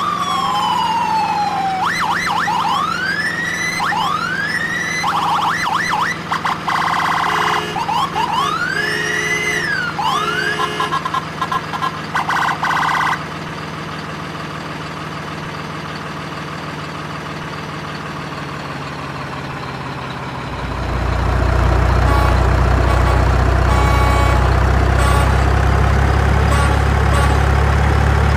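An electronic siren cycling through several sweeping tones, rising and falling wails and quick yelps, for about 13 seconds, then a steady hum. About 20 seconds in, a vehicle engine starts up and runs steadily with a loud low rumble.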